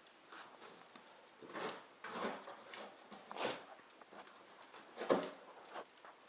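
Dachshund pawing and biting at a cardboard shipping box, a string of irregular cardboard scuffs and rips, the loudest about five seconds in.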